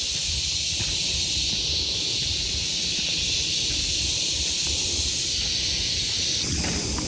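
Steady high-pitched hiss of a forest insect chorus over a low rumble of wind on the microphone. Near the end the sound shifts, with a few clicks and rustles.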